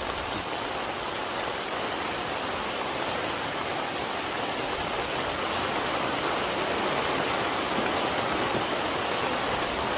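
Heavy rain pouring down, a steady, even rushing hiss.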